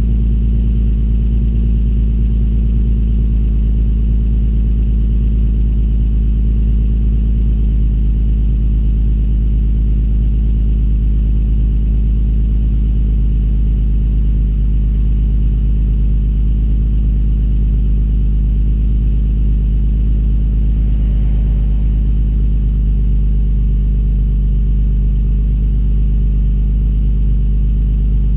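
Infiniti G37S's 3.7-litre V6 idling cold after a cold start, heard through an ARK Grip cat-back exhaust as a steady low exhaust rumble. The idle settles slightly lower about eight seconds in.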